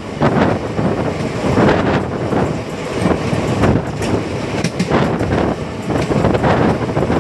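Express train coaches running at speed, heard from an open door: steady rumble of wheels on the rails with irregular clattering knocks, and wind buffeting the microphone.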